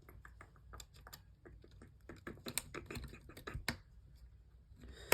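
Irregular light clicks and taps of small phone parts and tools being handled during smartphone reassembly, with one sharper click at the end.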